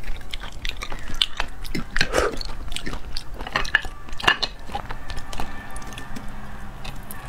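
Close-miked chewing of raw oyster: wet smacks and mouth clicks at an irregular pace, with light clicks of oyster shells being handled.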